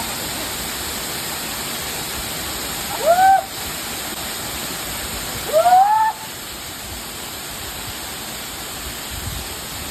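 Waterfall: a steady rush of falling water. Two brief high calls rise and fall over it, about three and six seconds in.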